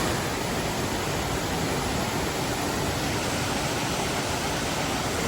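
Steady rushing of water falling over a waterfall with a modest flow.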